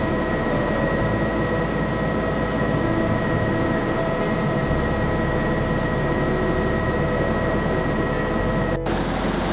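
Steady helicopter cabin noise: turbine whine and rotor rumble at cruise, with a cut near the end to a slightly different engine sound.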